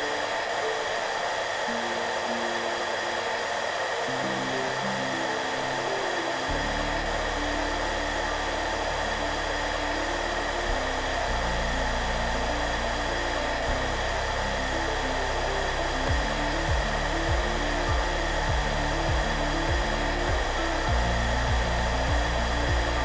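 Hair dryer running steadily: a constant rush of air with a fixed motor whine, mixed with soft background music. A low bass line comes in about a quarter of the way through, and a regular pulse joins past the middle.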